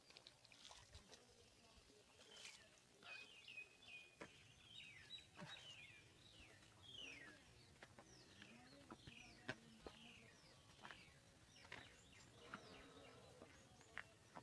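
Faint birdsong: many short, quick chirps that slide downward in pitch, repeated through the whole stretch, with a few sharp clicks among them.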